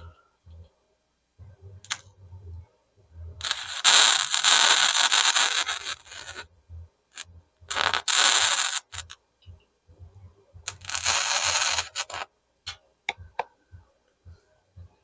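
Flux-core wire welder arc crackling and sizzling in three runs: a long one of about three seconds, then two shorter ones of about a second each, with clicks and short low hums between them.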